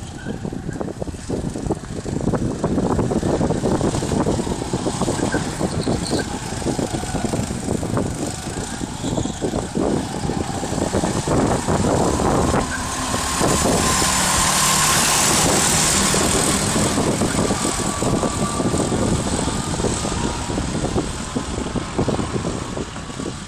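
Go-kart engines running on a track, with the noise swelling loudest a little past the middle.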